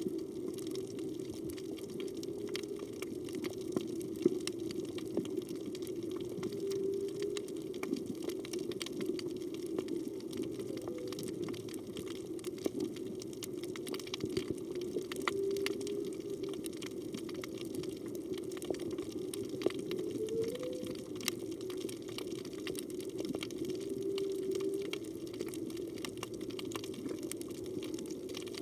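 Underwater reef ambience with a steady hiss and scattered crackling clicks, over which faint short tonal moans of humpback whale song come every few seconds, one rising in pitch about two thirds of the way through.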